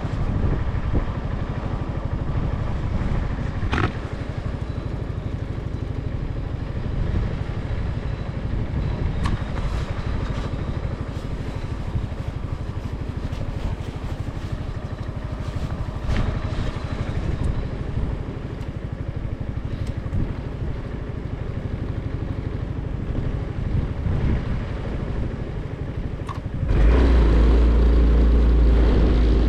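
Motorcycle engine idling steadily, picked up by a microphone on the bike, with a few brief clicks. Near the end the sound suddenly gets much louder with a heavy low rumble as the bike pulls away and wind buffets the microphone.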